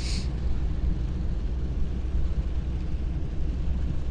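Pickup truck heard from inside the cab: a steady low rumble of engine and road noise, with a fainter even hiss of rain over it.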